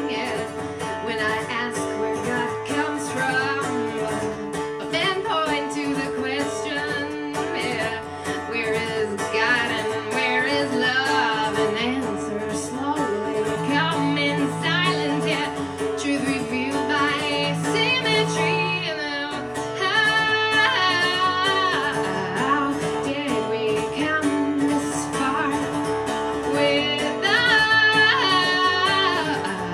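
A woman singing a song to her own acoustic guitar accompaniment, with the guitar playing steadily under the voice. Several long held notes waver in pitch.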